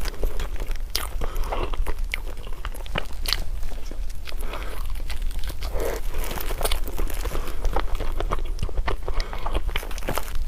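Close-miked biting and chewing of food: irregular crunches and wet mouth clicks and smacks, over a steady low hum.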